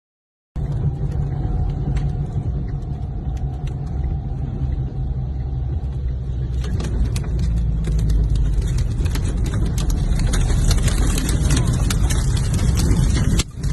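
Storm-force wind buffeting the microphone: a heavy low rumble with gusty hiss and many sharp rattling clicks, growing stronger about halfway through and breaking off briefly near the end.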